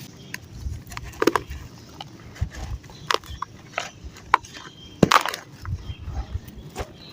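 Dried sand-and-cement chunks crumbling and breaking apart, with irregular crunches and cracks, the sharpest about five seconds in.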